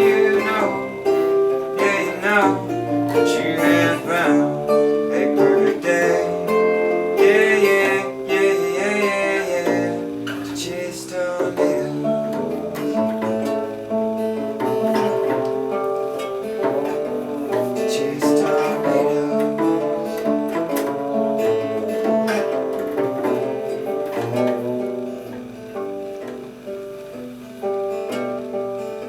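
Live acoustic guitar music: an instrumental passage of a song, with a bending melody line over the guitar in the first ten seconds, then the guitar growing quieter near the end.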